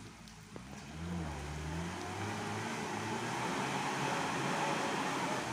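Truck engine running, growing louder over a few seconds as it comes closer or works harder, with a wash of road and tyre noise.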